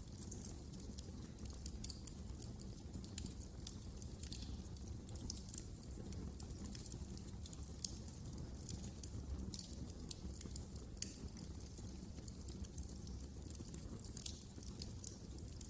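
Fire crackling in a fireplace: irregular sharp pops and snaps over a steady low rumble of flames.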